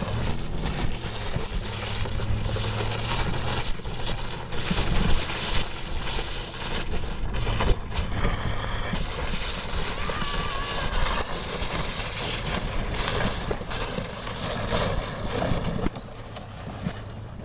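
Motorboat under way: a steady low engine hum under the rush of wind and water, with irregular knocks throughout.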